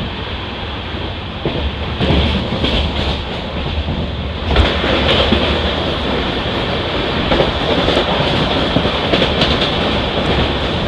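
Express train running at speed, heard from on board: steady rail noise with wheels clattering over rail joints. It grows louder about two seconds in and again about four and a half seconds in.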